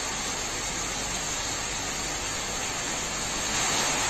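Heavy rain pouring down, with runoff streaming off a roof edge: a steady, dense hiss that stops abruptly at the end.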